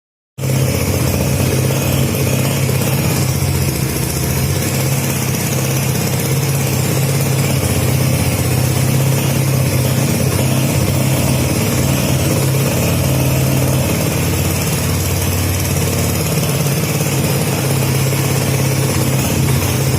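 Yamaha Mio scooter's single-cylinder four-stroke engine idling steadily, loud and even, with no revving.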